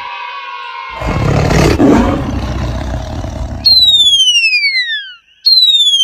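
A cartoon roar sound effect lasting about three seconds, then a high whistle gliding down in pitch, twice.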